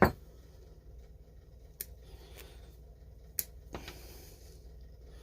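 Small handling noises from working with a short piece of fuel line and saw parts: a sharp click at the start, then three fainter clicks or taps spread through the rest, over a low steady hum.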